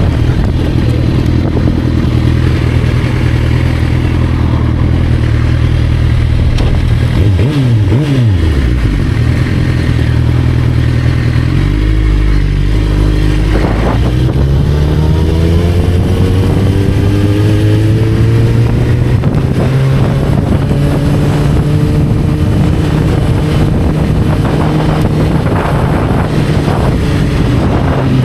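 Motorcycle engine running while ridden. The revs drop sharply about seven seconds in and sit at a low rumble around twelve seconds. From about fourteen seconds the pitch climbs steadily as it accelerates, then holds.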